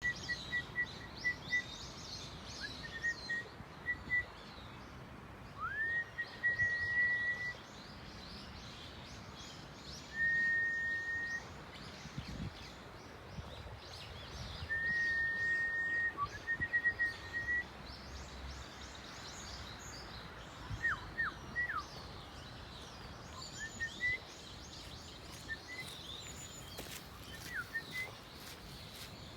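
Birds singing in a pine forest: many quick high chirps and twitters, broken several times by clear whistled notes held for about a second on one pitch, one of them sliding up into the held note, over a steady outdoor hiss.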